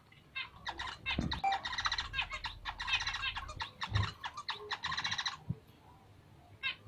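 Bengalese finches chirping: a rapid, busy run of high notes from about half a second in until about five and a half seconds, then only a few scattered calls.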